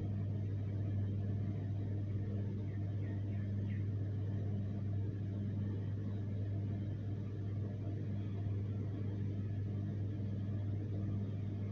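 Steady low hum with a faint hiss, unchanging throughout; no animal call.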